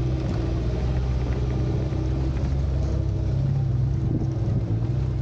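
Suzuki Samurai's engine running with a steady low note as the 4x4 drives along a dirt off-road trail, the note firming a little about three seconds in, with small knocks and rattles over it.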